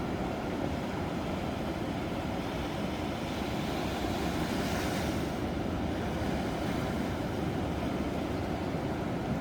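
Ocean surf breaking: a steady low rumble of waves, with the hiss of one wave washing in swelling and fading about halfway through.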